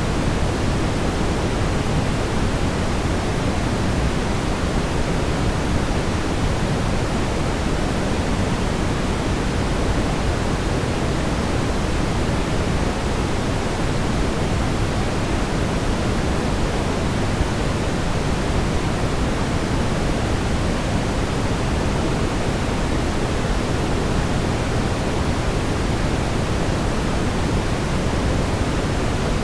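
Steady brown noise: an even, unbroken rumbling hiss, strongest in the low end and falling off toward the highs.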